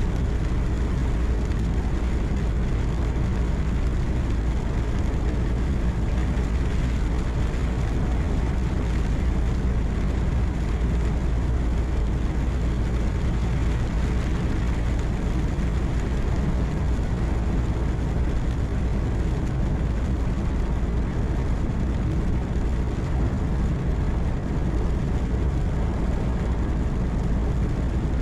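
Steady low rumble inside a truck's cab on the highway: the engine hums at a constant pace under road and tyre noise, with no change.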